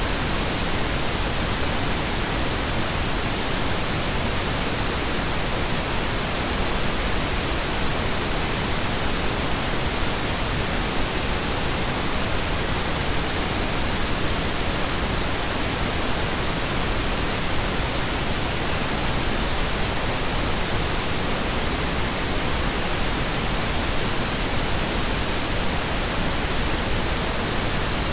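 Steady generated pink noise: an even, unchanging hiss at a constant level.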